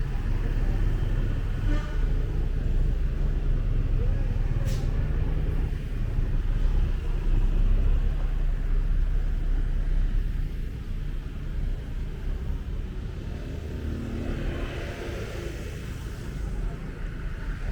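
Steady low rumble of a motorbike ride through traffic, with the engine and street traffic running together. A sharp click comes about five seconds in, and there are brief voices near the end.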